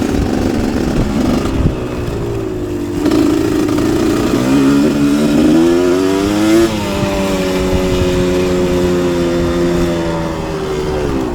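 Motocross dirt bike engine running under changing throttle: the pitch climbs for about two seconds midway, drops sharply, holds steady, then falls away near the end.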